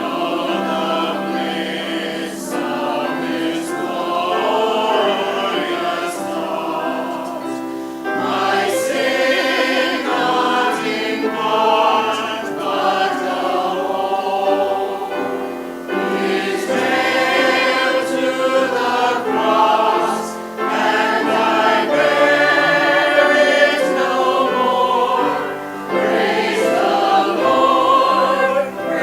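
Church sanctuary choir singing an anthem, held notes sung with vibrato, pausing briefly between phrases.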